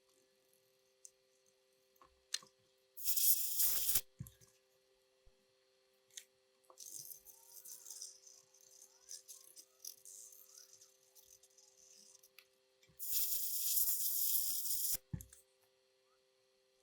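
Two loud hissing bursts, the first about a second long and the second about two seconds long, with softer scratchy rattling and a few clicks between them. A faint steady hum runs underneath.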